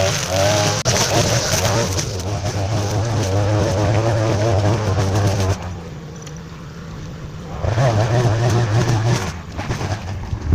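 Tractor diesel engine running steadily under indistinct voices, with a break of about two seconds just past the middle.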